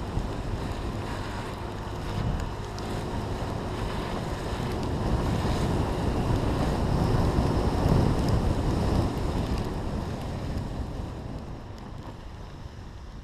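Wind buffeting the camera's microphone, a deep rumbling rush that swells toward the middle and dies away near the end.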